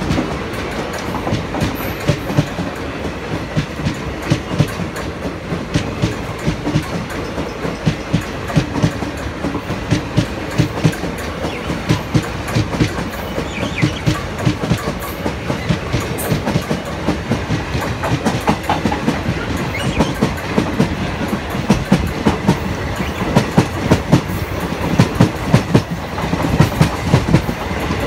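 Passenger train coaches passing close by on the adjacent track, their wheels clattering over the rail joints in a quick, steady clickety-clack. The clatter cuts off abruptly at the very end as the last coach clears.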